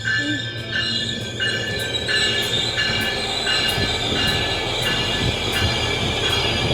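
Nippon Sharyo diesel multiple unit rolling in with a low diesel rumble and a high wheel and brake squeal that grows as it slows. A level-crossing bell dings about one and a half times a second and fades out about halfway through.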